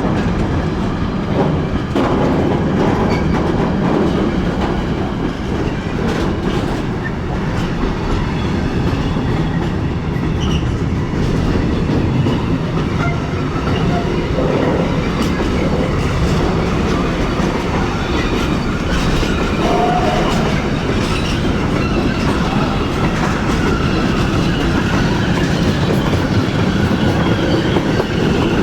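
A train rolling through a station, with a steady rumble and the wheels clicking over rail joints, mostly in the first several seconds. A brief faint squeal comes about two-thirds of the way in.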